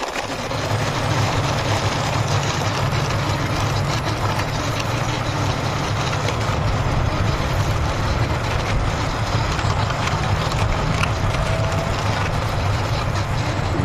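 Heavy truck engine idling steadily, low and even in pitch.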